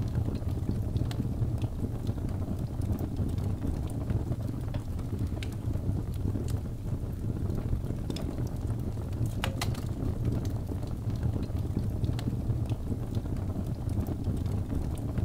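Wood fire burning in a fireplace: a steady low rumble of flames with scattered sharp crackles, and one louder pop about nine and a half seconds in.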